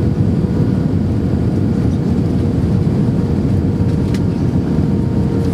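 Steady cabin noise inside an Airbus A319-131 airliner in flight: a loud, even rumble of airflow and its IAE V2500 engines with a steady hum running through it. There is a faint click about four seconds in.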